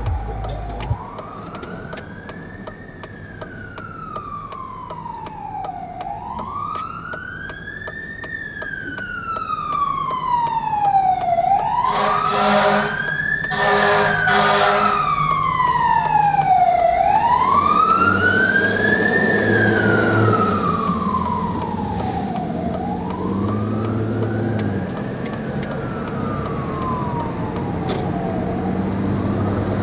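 Fire engine's siren on a slow wail, rising and falling about every five and a half seconds and getting louder as the truck approaches, with a string of short horn blasts in the middle and the truck's engine running underneath.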